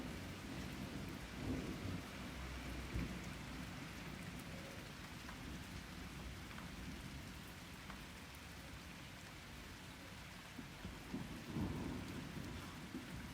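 Steady rain falling, with a low rumble of thunder over the first few seconds that dies away, and another short rumble of thunder near the end.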